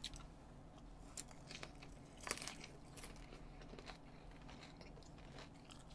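Faint crunching and chewing of fried chicken with sliced green chili: scattered soft crunches, the clearest about two seconds in.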